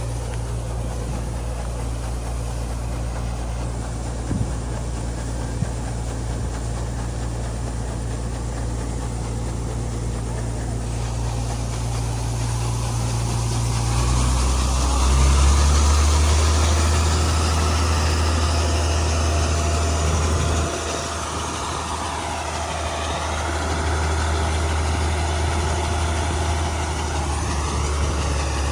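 Combine harvester's heavy diesel engine running steadily. Its note steps up about halfway through and drops back a few seconds later, while the machinery noise above it grows louder through the second half.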